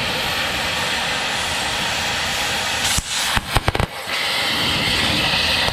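Angle grinder cutting through a steel attachment pin, running steadily. About three seconds in the cut is broken for about a second by a quick cluster of sharp cracks, then the grinding resumes.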